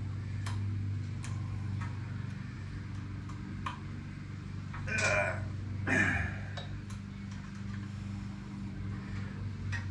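Scattered light clicks and taps of hand tools working on metal parts, over a steady low hum, with two louder short sounds about five and six seconds in.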